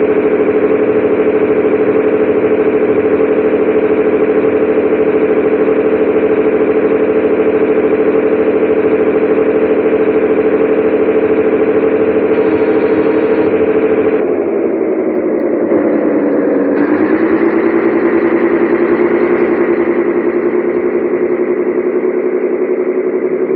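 Scania 113H 360 truck's six-cylinder diesel engine running steadily, loud and distorted. About 14 seconds in, its pitch drops over a few seconds and then slowly climbs again.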